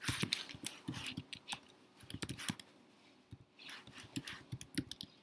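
Typing on a computer keyboard: irregular runs of key clicks with short pauses, entering an email address into a form.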